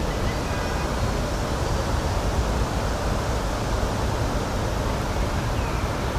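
Steady rushing of flowing water, an even full noise heaviest in the low end, with a few faint high chirps near the start and near the end.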